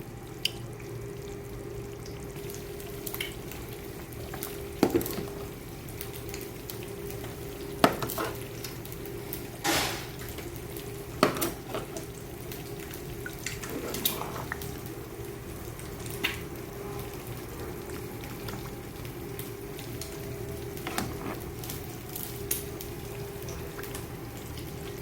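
Pot of Nigerian tomato chicken stew sizzling and bubbling on the stove, with a spoon clinking against the pot now and then as it is stirred, over a steady low hum.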